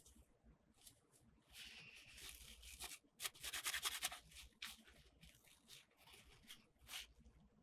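Toy packaging being handled and torn open by hand: soft crinkling, scraping and tearing sounds. The loudest is a quick run of clicks and tearing about three seconds in.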